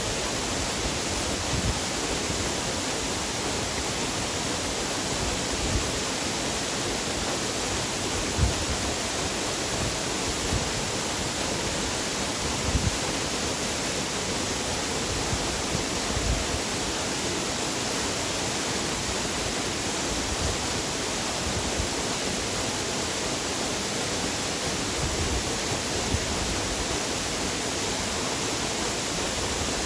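Waterfall: a steady rush of falling water, even and unbroken, with a few brief low thumps now and then.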